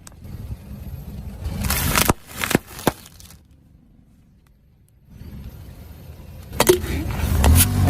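A car rolling over objects and crushing them: a low tyre-and-engine rumble with sharp cracks and crunches, a brief lull in the middle, then another run of rumble and cracking near the end.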